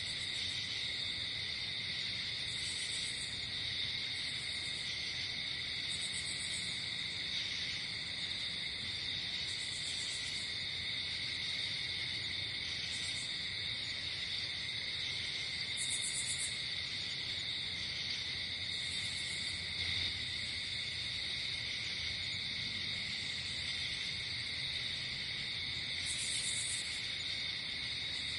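Night-time chorus of crickets and other insects: a steady high trilling, with shorter, higher chirping bursts coming in every couple of seconds.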